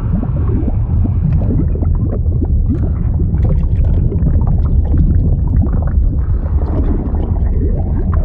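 Liquid sound effect: a deep, steady rumble with constant irregular gurgling and bubbling over it.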